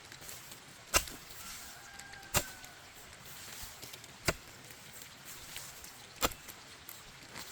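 Four sharp knocks at uneven intervals, each short and clean, over a quiet outdoor background.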